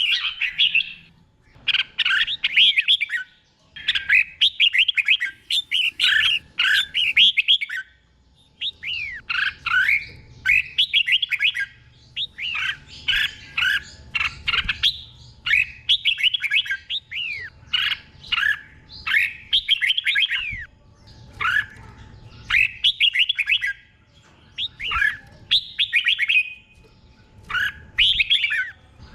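Red-whiskered bulbul singing: short, bright whistled phrases of quick up-and-down notes, repeated every second or two with brief pauses between them.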